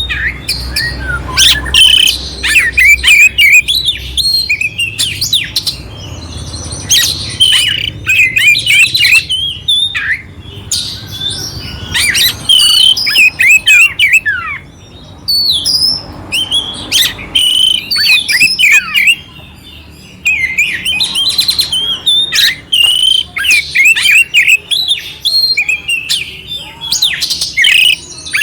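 Oriental magpie-robin (kacer) singing a loud, fast, varied song of clear whistles, chirps and harsh rasping fill-in notes, broken by a couple of short pauses.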